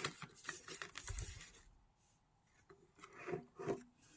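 Handling noise from small plastic parts and wires: light clicks and rubbing for about the first second and a half, then quiet, with two faint short sounds near the end.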